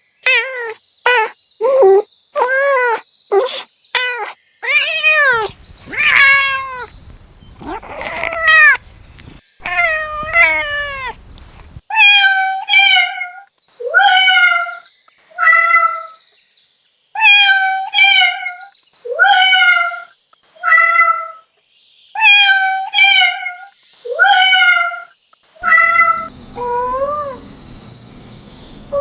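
Cats meowing over and over: first a run of short, quick meows about two a second, then a few longer drawn-out meows, then a steady pattern of higher meows, some in pairs and some single, repeating every couple of seconds.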